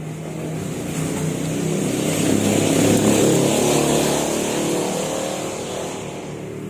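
A motor vehicle's engine passing by, swelling to its loudest about three seconds in and then fading away.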